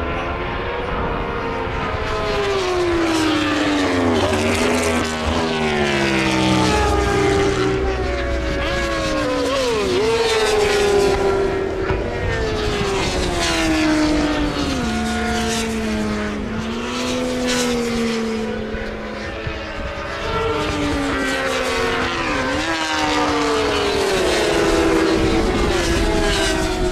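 Racing motorcycles (superbikes and supersport 600s) passing one after another at race speed, engines howling at high revs, their pitch rising with each gear and falling away as each bike goes by.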